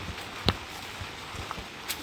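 Steady rain, with a sharp tap about half a second in and another near the end.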